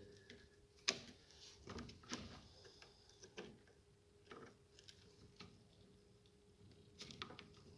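Faint, irregular metallic clicks and taps of hand tools on the steering rack as its adjusting plug is slowly backed off from fully tight, over a faint steady hum.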